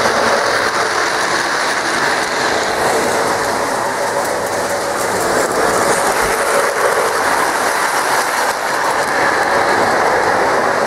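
Lionel O-gauge New York Central diesel model train running on FasTrack, with a steady, loud clatter of its wheels rolling over the track.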